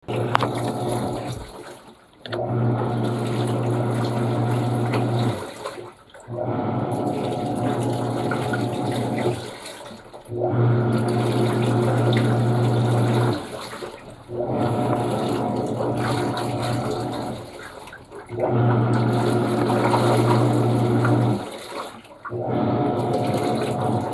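Panasonic washing machine in its wash action. The motor churns the load in bursts of about three to four seconds with a brief pause between each, and a hum that comes and goes on alternate bursts. Water sloshes throughout.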